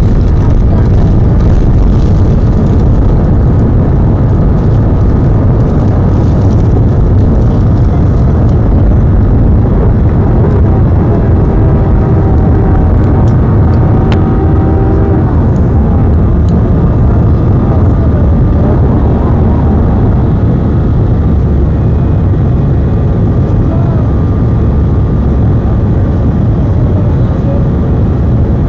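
Steady, loud roar of an Airbus A319's jet engines at high takeoff power, heard inside the passenger cabin, with a deep rumble underneath.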